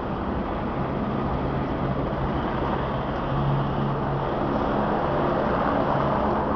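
Steady engine noise with a low droning hum, growing slightly louder about three seconds in.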